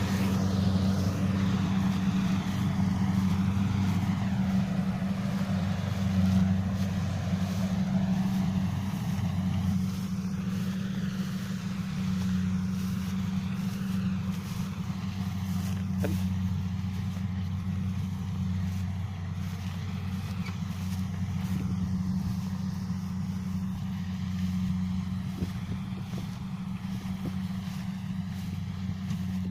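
Kubota DC-70 combine rice harvester's diesel engine running steadily with a low, even drone, getting gradually a little quieter.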